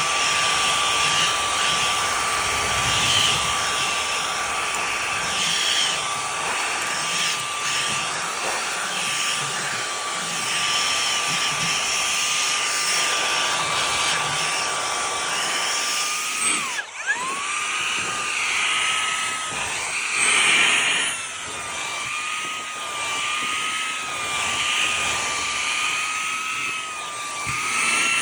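Motor of a HOTO cordless handheld vacuum and air duster running, a steady high whine over a rush of air. About seventeen seconds in the whine dips sharply and comes back, then wavers up and down in pitch.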